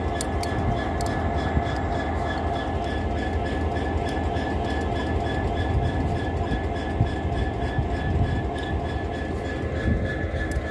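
EWS Class 66 diesel locomotive standing with its EMD two-stroke V12 engine running steadily: a low hum with a thin, steady high whine over it.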